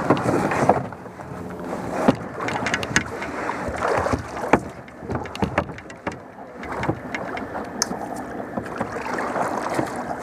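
Kayak being paddled: irregular splashing of the paddle in the water, with a few sharp knocks now and then.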